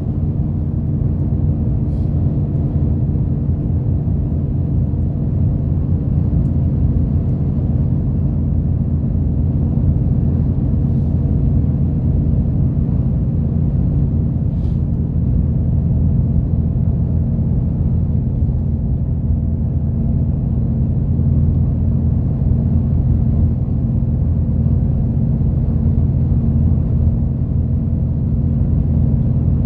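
Route bus heard from inside the passenger cabin: the engine drones steadily with low road rumble, and there are a few faint ticks.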